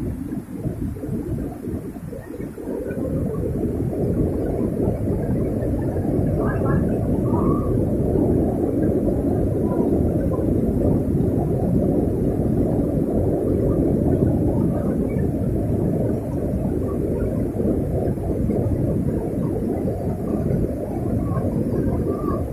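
A loud, steady low rumble of noise that rises about three seconds in and holds.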